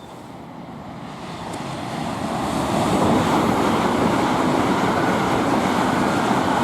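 A train passing at speed: a steady rushing rumble of wheels and air that builds over about three seconds, then holds loud.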